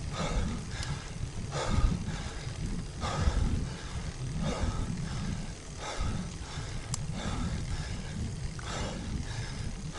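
Cyclist breathing hard in a steady rhythm, about one heavy breath every second and a half, over a constant low wind rumble on the action camera's microphone while riding the road bike.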